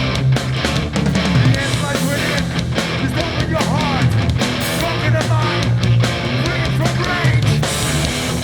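Hardcore punk band playing live: distorted electric guitars, bass and drums driving along at a steady loud level.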